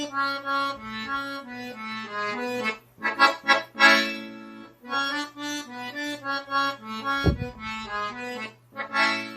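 Accordion (sanfona) playing a slow single-note melody in A major over bass notes, with fuller chords around three to four seconds in. A brief low thump sounds about seven seconds in.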